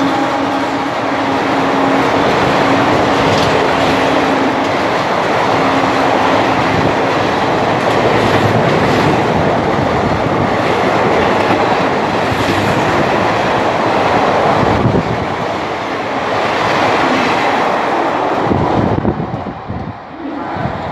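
An Indian Railways express running through a station at speed behind a WAP-4 electric locomotive: its horn sounds through the first seven or so seconds, then the coaches' wheels rattle over the rails, the noise dying away near the end as the last coach passes.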